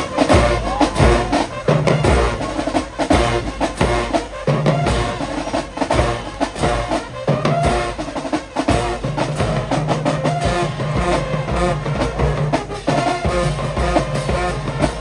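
High school marching band playing, with drums beating strongly under sustained pitched instrument lines.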